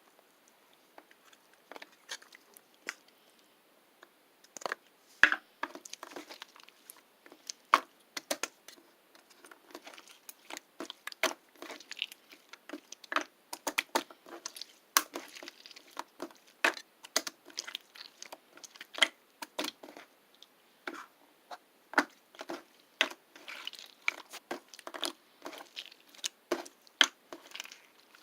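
Close-up crunching and crackling: many quick, irregular clicks, sparse at first and coming thick and fast from about five seconds in.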